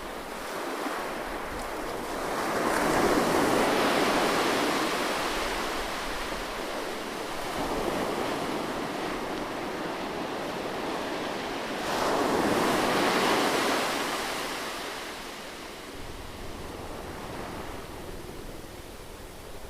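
Ocean waves breaking and washing onto a shore, two large swells rising to a peak about three seconds in and again about twelve seconds in, each ebbing away in a long hiss.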